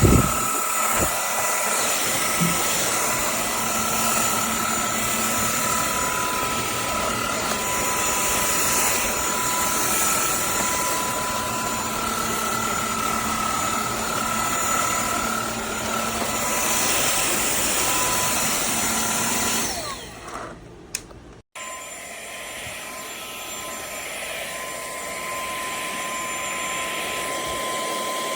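Vacuum cleaner motor running with a steady high whine over a rushing hiss. About twenty seconds in it dips and cuts out briefly, then runs on more quietly.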